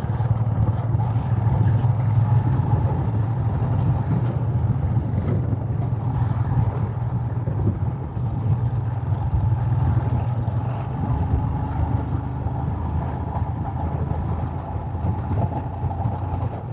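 Royal Enfield Himalayan's single-cylinder 411 cc engine running steadily under way, with road noise, heard from a helmet-mounted mic.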